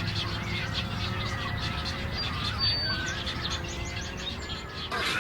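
Many birds calling at once at a heron and egret nesting colony: a dense chatter of short calls, with a brief whistle in the middle and a steady low hum underneath.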